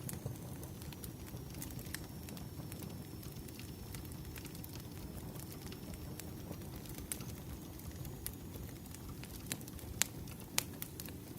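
Wood fire crackling: a steady low rumble of burning logs with scattered sharp pops at irregular intervals, two of them louder about ten seconds in.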